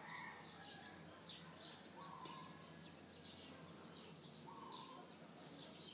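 Near silence: faint room tone with distant birds chirping, many short high chirps scattered throughout and two brief, thin, steadier calls.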